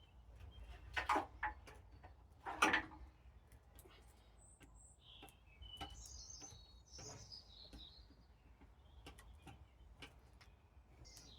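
Knocks and clanks from engine-removal work, the two loudest about one and two and a half seconds in, with scattered lighter ticks. Birds chirp around the middle over a low background rumble.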